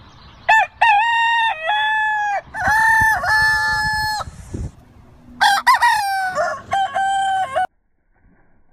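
Desi rooster crowing twice, each crow a long, loud, drawn-out call in several held segments. The second crow cuts off suddenly near the end.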